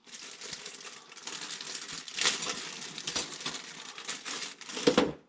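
Crinkling and rustling with scattered light clicks as new piston rings and their packaging are handled while the rings are fitted to the piston grooves.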